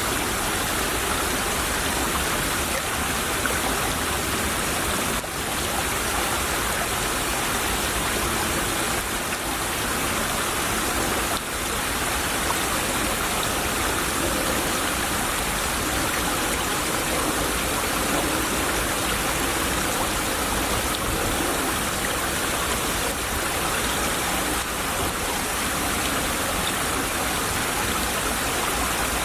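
A small stream trickling and babbling steadily over its bed.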